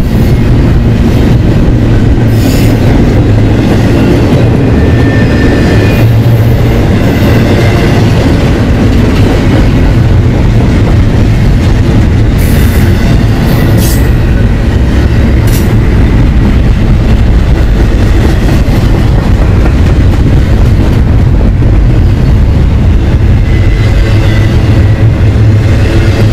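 Freight train rolling past with a steady, loud rumble of cars on the rails. A few sharp clacks from the wheels come about a third and halfway through, with faint wheel squeal now and then.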